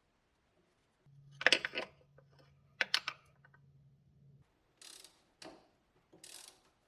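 Metal tools and parts clinking and clattering, with a steady low hum running for about three seconds under two loud clatters, then three short rustling scrapes.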